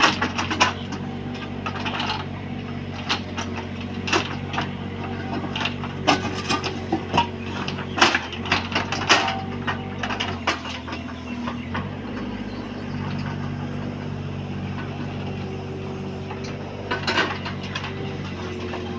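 Bobcat 322 mini excavator's engine running steadily under work, with many sharp clanks and knocks as the machine levels ground. The engine note dips and changes for a couple of seconds about ten seconds in.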